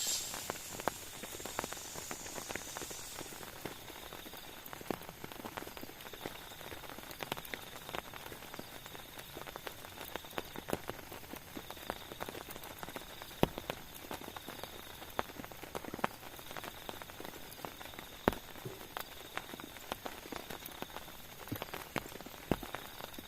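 Rain falling as scattered separate drops, pattering irregularly over a faint steady hiss, with a few sharper, louder drops now and then.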